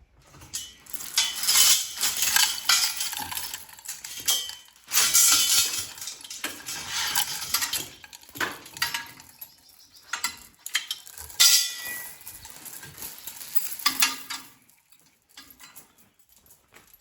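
Metal scraping and clattering in irregular strokes, dying down about two and a half seconds before the end.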